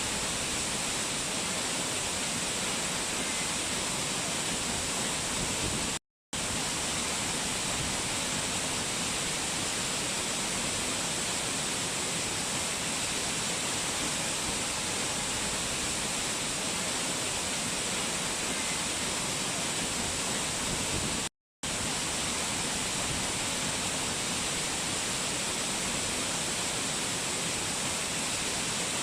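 Rushing water of a mountain stream or waterfall, a steady, even hiss with no change in strength. It cuts out to silence for an instant twice, about six seconds in and again about twenty-one seconds in.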